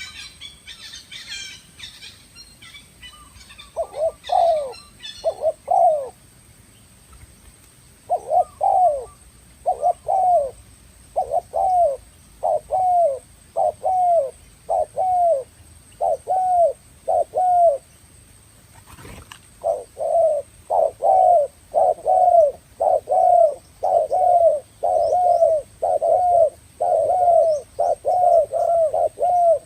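Spotted dove (tekukur) cooing: runs of short, falling coo notes repeated about one and a half times a second. They break off for a moment and then carry on more densely. High small-bird chirps come in the first couple of seconds.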